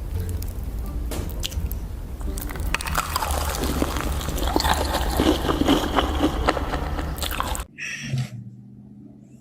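Close-miked biting and chewing of crunchy food, with crackling crunches that grow dense from about three seconds in and stop abruptly near the end.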